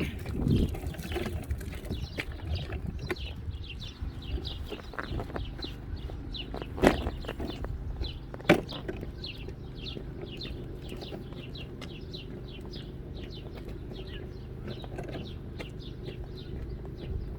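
Small birds chirping continuously, many short falling notes several times a second, over a steady low rumble. Two sharp clicks about a second and a half apart near the middle stand out as the loudest sounds.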